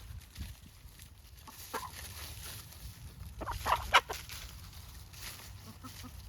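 Free-range chickens clucking: a couple of short clucks about two seconds in, then a louder quick run of clucks just before four seconds.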